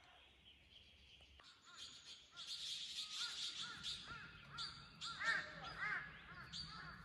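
Birds calling: a run of short, repeated calls beginning about a second and a half in, over a steady high hiss.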